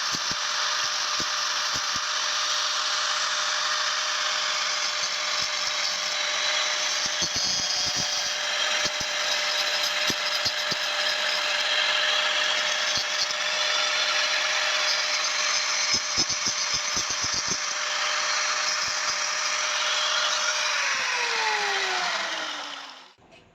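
Electric power tool running steadily, a motor tone under a dense hiss. About 21 seconds in it is switched off, and its pitch falls as it spins down to a stop.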